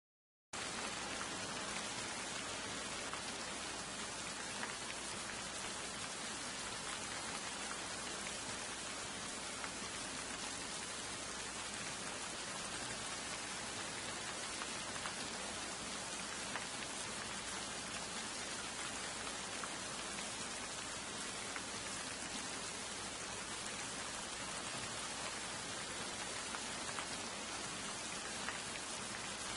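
Steady rain falling, cutting in suddenly about half a second in and holding an even level throughout.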